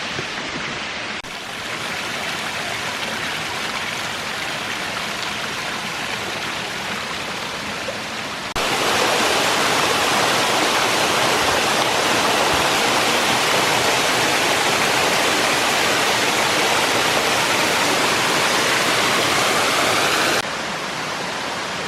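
Small tiered waterfalls splashing down a rock face in a steady rush of water. About eight seconds in it becomes louder and brighter, and it drops back down near the end.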